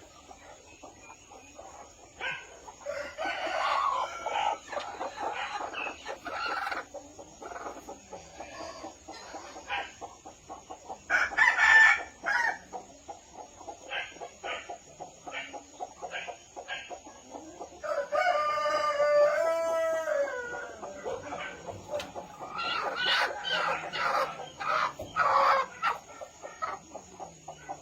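A flock of chickens clucking and cackling in clustered bouts, with single clucks in between. A rooster crows once for about two seconds, a little past the middle.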